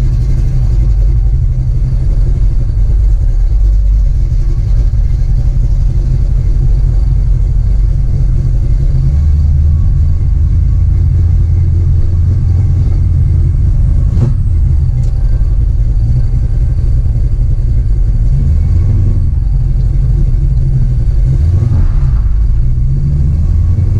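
The Mustang's stroked small-block Ford V8 (a 302 built out to 352 cubic inches) rumbling low and steady while the car is driven, heard from inside the cabin. A single sharp click comes about 14 seconds in.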